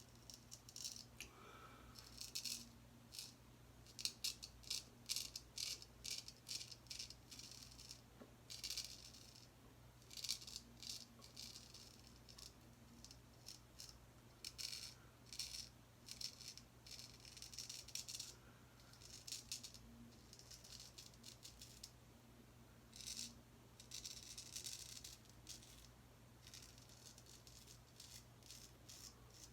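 Gold Dollar 208 straight razor scraping through lathered stubble: faint, raspy strokes in short runs with brief pauses between.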